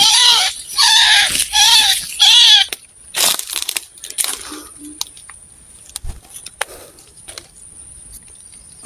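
White-breasted waterhen calls: a run of loud arched notes, each rising and falling in pitch, about two a second. They stop about two and a half seconds in, and scattered clicks and rustling follow.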